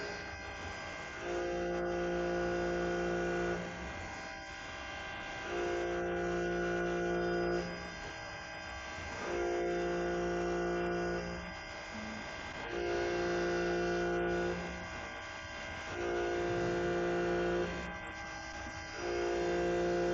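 CNC turning machine running its program: a steady machine hum, with a motor whine that switches on for about two seconds and off again in a regular cycle, about five times.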